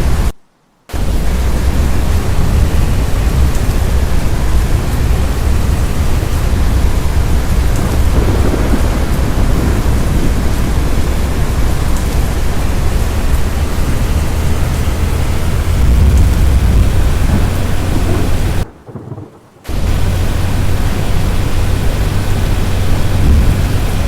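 Loud, steady rush of storm wind and rain, with a heavy low rumble of wind buffeting the microphone. It cuts out abruptly twice.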